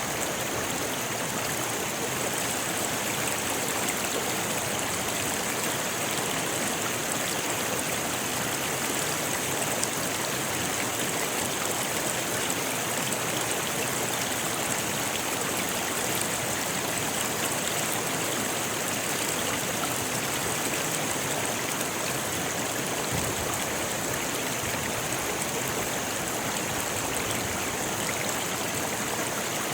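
Rocky river flowing over stones: a steady, unbroken rush of water.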